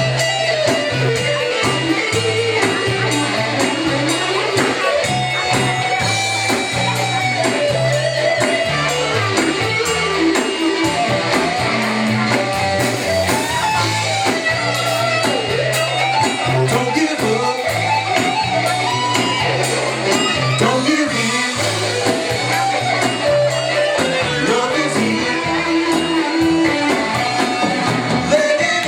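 Live band playing an instrumental break: a wandering lead melody, likely guitar, over a steady repeating bass line and drums.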